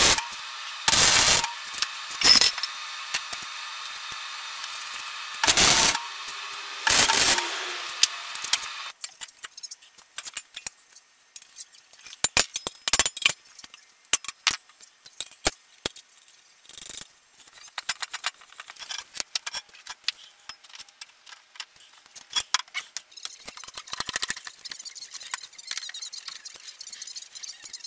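Workshop tool and metal-part handling. For the first nine seconds a steady machine hum runs under several loud short bursts; it then stops, leaving scattered clattering and knocking.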